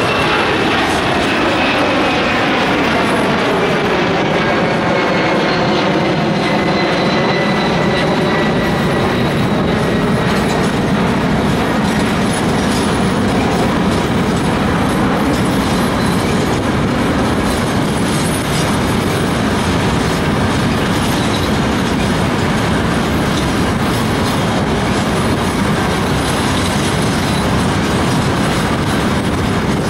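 Empty covered hopper cars of a long freight train rolling past close by: a steady, loud rumble of steel wheels on rail. Thin high tones slide down in pitch over the first ten seconds or so.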